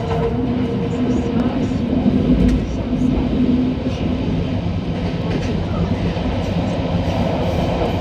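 Guangzhou Metro Line 6 train running along the line, a steady rumble of wheels on rails with a low hum held through roughly the first half.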